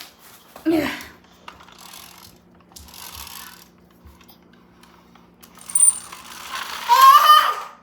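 Pull-back friction motor of a toy bus whirring steadily as the wound-up toy runs across the floor. Near the end a high voice rises over it.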